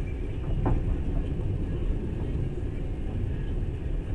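Passenger train carriage running along the track, heard from inside: a steady low rumble with a single knock just under a second in.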